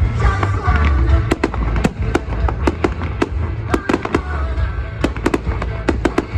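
Fireworks display going off: a rapid, irregular string of sharp bangs and pops over a continuous deep rumble.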